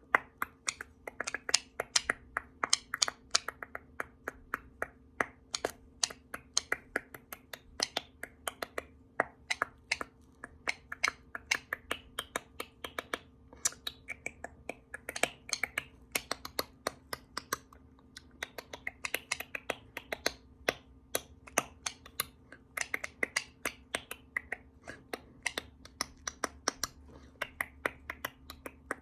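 Rapid, irregular sharp clicks and taps, about four or five a second, some with a brief ringing edge, over a faint steady hum.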